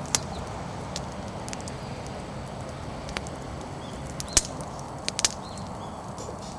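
Wood bonfire burning with a steady low rush and scattered sharp crackles and pops from the firewood, the loudest pop about four seconds in and a quick pair soon after.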